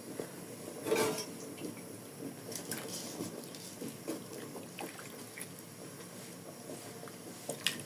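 Pot of water boiling with spaghetti in it, a faint bubbling, with scattered light clicks and knocks and a brief louder clatter about a second in.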